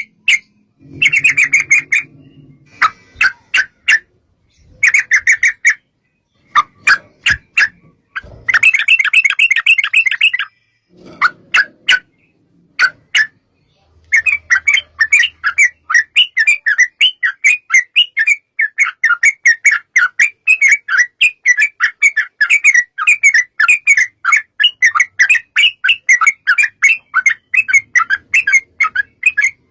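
Yellow-vented bulbul (trucukan) calling: bubbly chattering phrases in short bursts with pauses, then from about halfway a long unbroken run of rapid notes, the long 'ropel' trill.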